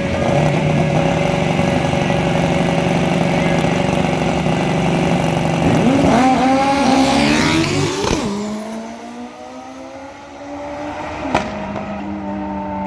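Racing motorcycle engines running at a steady note, then revving with pitch sweeping up and down about six seconds in, before the sound drops away. Near the end a quieter engine note climbs slowly, with a single sharp click just before.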